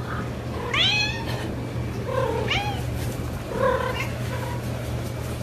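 A pet animal crying out three times, each cry rising then falling in pitch, over a steady low hum.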